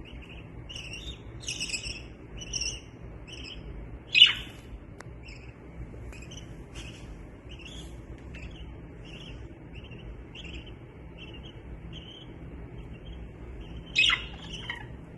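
Budgerigars chirping in a run of short, quick high chirps, with two louder sharp calls, one about four seconds in and one near the end.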